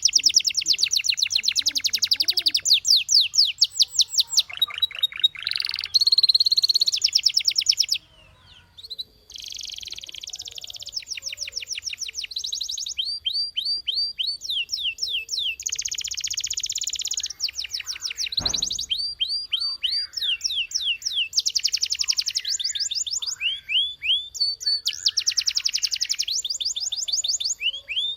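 Canary singing: fast trills of repeated notes and rising and falling sweeps, in phrases of a few seconds each, with a brief lull about eight seconds in.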